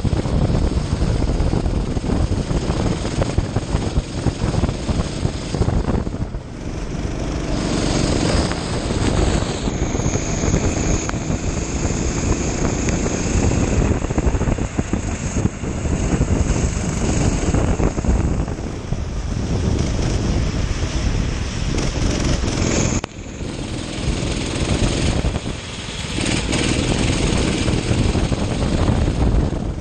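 Kart engine running at speed on a wet track, a steady, loud, rough engine sound; the sound drops off briefly twice, about six seconds in and again about two-thirds of the way through, before picking up again.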